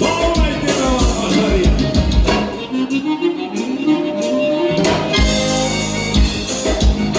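Live gaúcho dance-band music led by accordion, with drums and bass. In the middle the drums and bass drop out for a run that falls and then climbs back up, and the full band comes back in about five seconds in.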